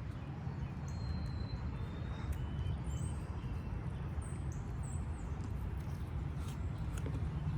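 Outdoor ambience: a steady low rumble under a light hiss, with a few short, high bird chirps and faint clicks.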